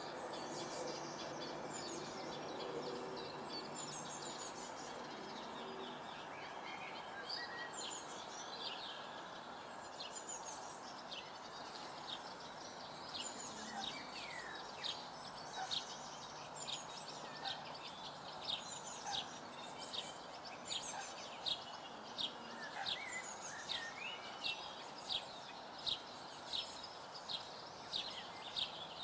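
Birds calling and chirping over a steady outdoor background hiss. From about halfway, one short sharp call repeats regularly, a little more than once a second, and grows more prominent toward the end.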